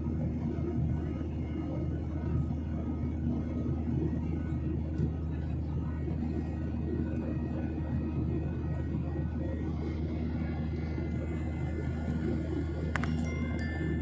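Steady low rumble of an airliner's engines heard from inside the cabin. About a second before the end comes a brief set of high ringing tones with a sharp start.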